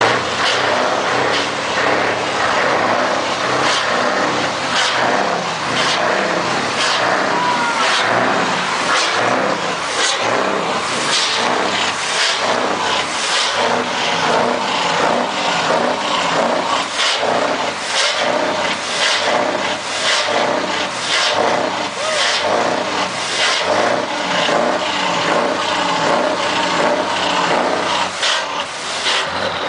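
A vehicle engine running steadily, with a regular pulsing beat of roughly two pulses a second.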